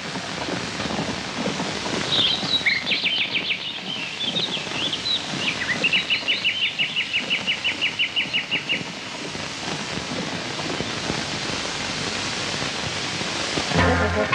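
Birds calling over steady background noise: a burst of chirps and trills, then a run of quick repeated notes, about six a second. Guitar music comes in near the end.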